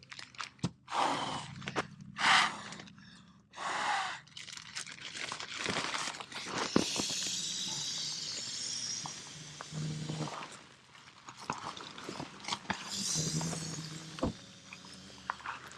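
Nylon pump sack being filled and squeezed to inflate a Nemo Tensor sleeping pad: rushes of air with fabric rustling and crinkling, and a longer hissing squeeze in the middle.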